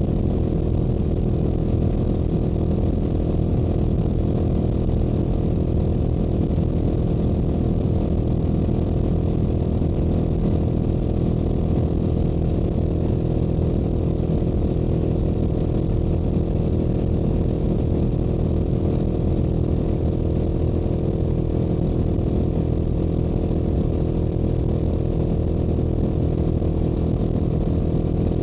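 Yamaha YZF-R7's 689 cc parallel-twin engine through its stock exhaust, running at a steady highway cruising speed with no change in revs.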